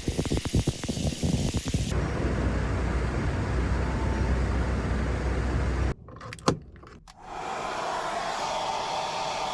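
Shower running in a camper's wet room: a steady hiss of water spray, with clicks and handling noise in the first two seconds and a short break about six seconds in.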